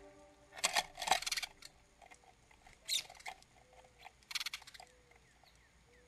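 Small birds at a backyard seed feeder: four short, scratchy bursts of sound, the first two close together about a second in, then one about three seconds in and one about four and a half seconds in.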